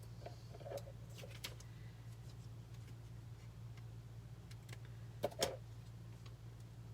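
Small paper snips cutting little pieces of foam adhesive dimensionals: a few light snips early, then two sharp snips in quick succession about five seconds in, over a steady low hum.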